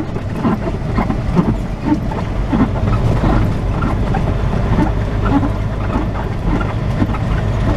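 Semi truck cab noise with the engine and road rumble running steadily, overlaid by frequent short squeaks and creaks from the truck's hood. The driver puts the squeaking down to humid, cool air.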